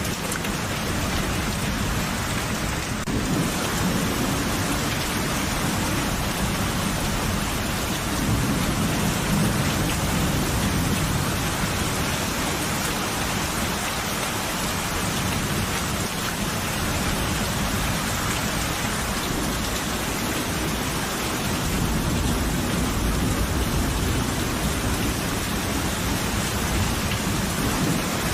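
Steady rain falling, with low rumbles of thunder swelling twice, about a third of the way in and again near the end.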